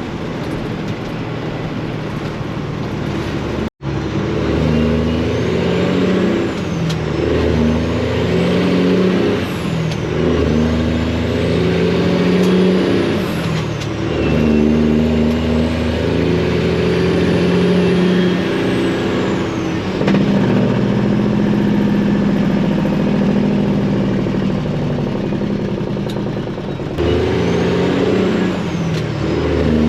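Detroit diesel engine in a Freightliner semi-truck pulling through the gears: its note climbs and then drops at each upshift, again and again, with a turbo whistle rising and falling above it. The sound breaks off briefly about four seconds in.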